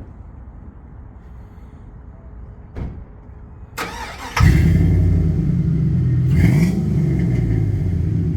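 Chevrolet Silverado's 4.8-litre V8 with a freshly fitted aftermarket exhaust. After a low rumble and a couple of knocks, the engine suddenly comes up loud about four seconds in and runs hard, its pitch sweeping upward once.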